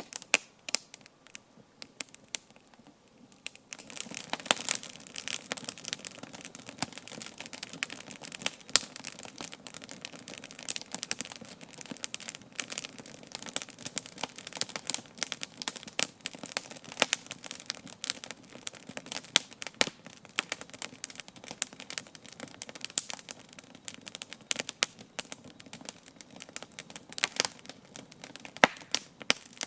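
Wood campfire crackling, with frequent sharp pops and snaps. The crackle thins out for a few seconds near the start, then picks up again and stays busy.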